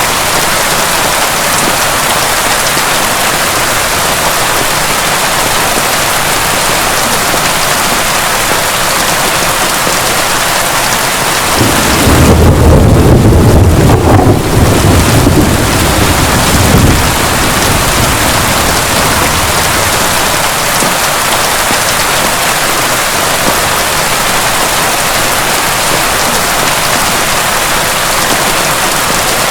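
Heavy rain falling steadily. About twelve seconds in, a peal of thunder breaks and rumbles low for about five seconds before fading back into the rain.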